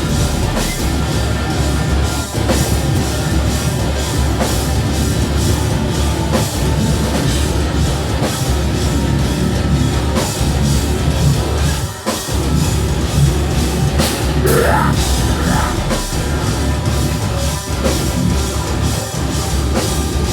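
Metalcore band playing live at full volume: distorted electric guitars, bass and a pounding drum kit kick in together at the start of a song, with a brief break about twelve seconds in before the band crashes back in.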